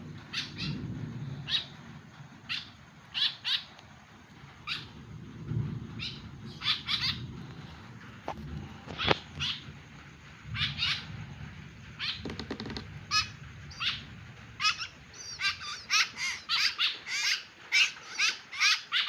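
Young kekep babi bird giving short, harsh calls, scattered at first and then coming faster and louder, about two a second, over the last few seconds.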